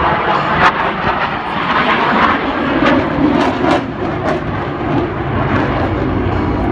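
Fighter jet flying an aerobatic display pass, its jet engine noise loud and continuous, with a few brief crackles.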